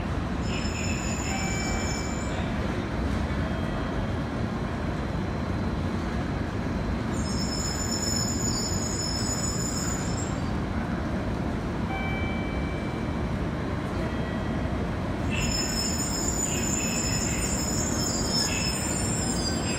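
N700-series Shinkansen train pulling slowly into a station platform: a steady low rumble with high-pitched wheel squeal in three spells, about a second in, around seven to ten seconds in, and again from about fifteen seconds on.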